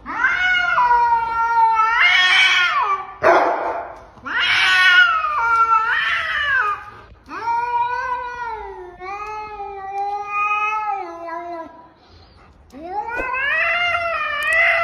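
A cat yowling in long, drawn-out calls that rise and fall in pitch, four in a row, each lasting a few seconds.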